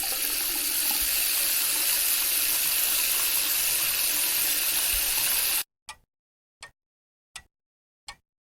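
Water running steadily, which cuts off suddenly about five and a half seconds in. It is followed by short, evenly spaced clicks, about one every 0.7 seconds.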